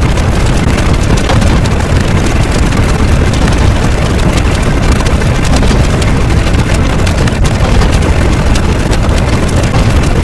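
A loud, steady rushing noise with a deep rumble underneath and a fine crackle, unchanging throughout.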